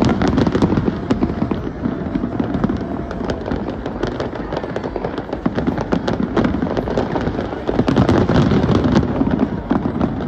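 Fireworks display going off in rapid succession: a dense barrage of bangs and crackling over a low rumble, heaviest about eight seconds in.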